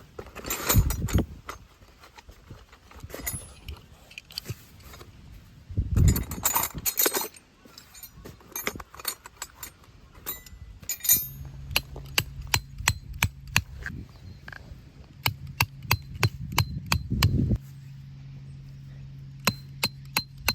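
Sharp clicks, knocks and clinks of camp gear being handled. They come thick and fast in the second half, over a steady low hum that starts about halfway through.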